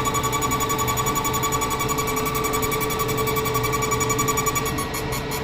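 A diesel pump test bench running a Delphi common-rail high-pressure pump: a steady mechanical whine with a fast, even pulsing. The sound shifts and eases slightly near the end.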